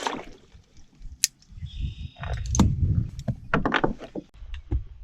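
Knocks, clicks and rattles of fishing gear being handled aboard a kayak, over a low rumble.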